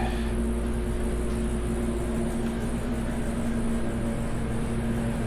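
Steady mechanical hum with a constant low tone, unchanging, with no distinct knocks or clicks.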